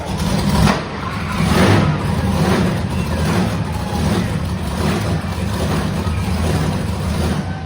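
Monster truck engine running loud, with repeated surges of revving about once a second.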